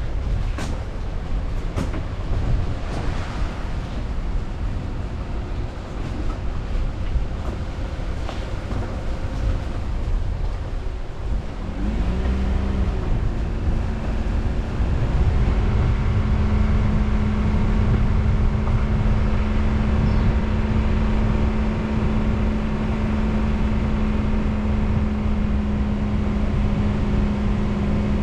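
A car driving, recorded by a mounted camera: steady road and tyre noise with a few knocks. About twelve seconds in, the engine note rises as the car speeds up, then holds a steady hum.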